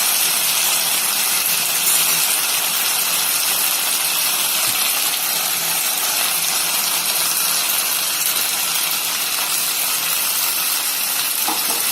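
Chicken sizzling steadily in a pan as it fries, its cooking liquid nearly dried off, with a faint knock or two.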